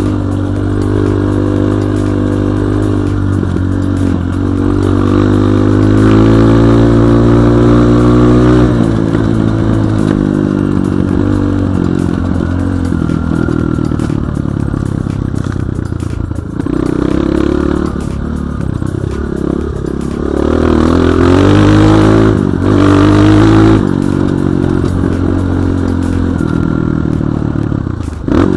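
BSE J1 enduro motorcycle's single-cylinder engine running under load on an off-road trail, the revs rising and falling with the throttle, climbing for several seconds early on and pulling hard again near the end, with rattling from the bike over rough ground.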